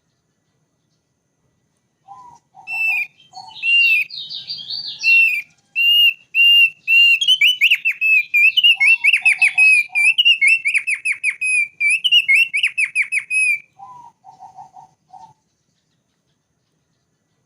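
Thick-billed white-eye (opior paruh tebal) singing. After a short silence comes a run of repeated clear whistled notes, which quickens into rapid trilled phrases and stops a few seconds before the end. Short groups of lower notes come in at the start, in the middle and at the end of the song.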